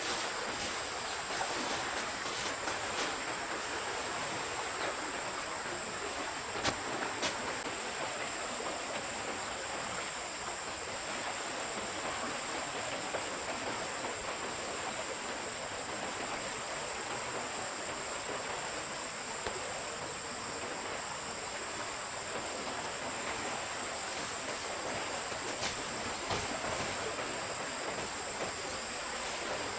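Forest stream flowing steadily, with a continuous high-pitched insect drone over the water and a couple of faint clicks.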